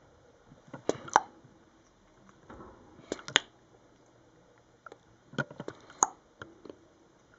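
A parrot eating, its beak biting and working food held in its foot, heard as clusters of short sharp clicks and crunches about a second in, about three seconds in, and again around five to six seconds in.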